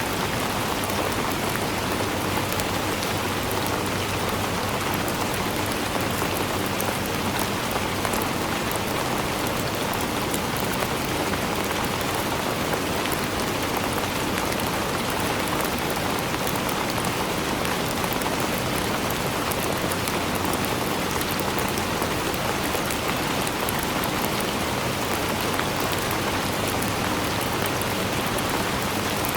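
Steady rain falling, an even hiss with many fine drop ticks on a surface, unchanging throughout.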